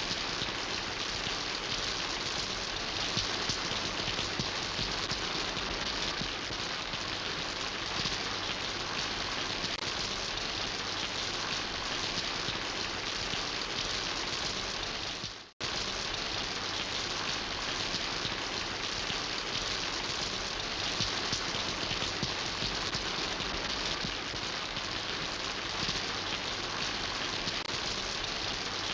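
Steady, dense rain falling and pattering on surfaces, an even hiss without separate drops standing out. The sound drops out for a split second about halfway through.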